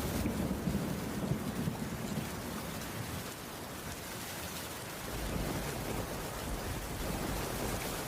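Heavy rain falling steadily, with low rumbles of thunder: one rolls in right at the start for about two seconds, and another about five seconds in.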